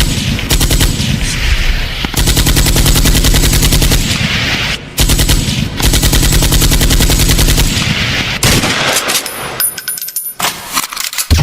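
Machine-gun fire sound effect in a DJ sound-test track, played loud over speakers. It comes in long bursts of rapid, evenly spaced shots, each with a heavy bass thump, broken by short gaps about two, five and eight seconds in, then thinning out near the end.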